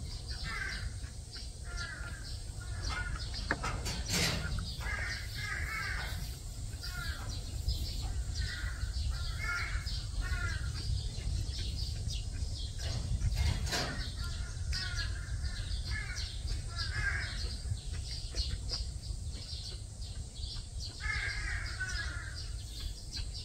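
Birds calling outdoors in repeated short bursts of harsh calls every second or two, over a steady low rumble, with two sharp knocks about four seconds in and again near the middle.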